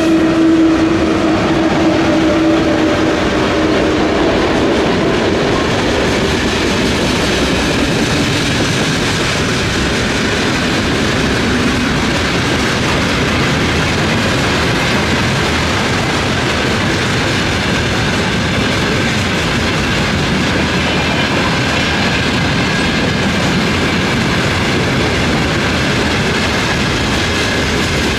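Freight train passing close by at a level crossing: the 3ES5K three-section electric locomotive and then its wagons go by with a steady, loud rumble and the clickety-clack of wheels over rail joints. The tail of a horn blast fades out in the first few seconds.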